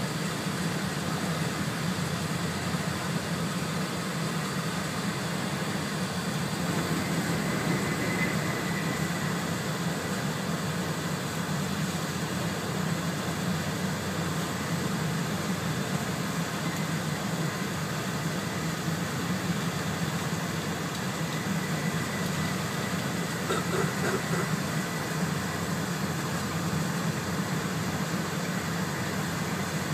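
Steady running noise inside an E4 series double-deck Shinkansen car at speed: an even low rumble with a faint high whine above it.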